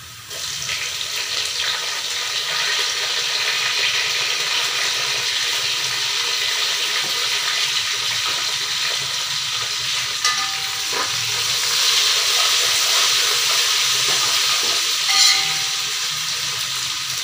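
Sliced onions and green chillies sizzling in hot oil in a steel pot. The sizzle jumps up sharply as the chillies go in and stays loud, with a couple of knocks of a stirring spoon against the pot later on.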